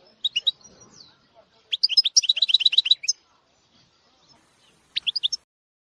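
A small songbird singing: a few short chirps, then a fast trill of about ten repeated high notes lasting over a second, and another short group of chirps near the end.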